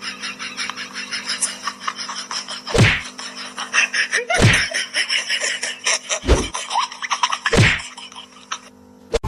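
A series of four heavy thumps about a second and a half apart, over a fast patter of small clicks and taps.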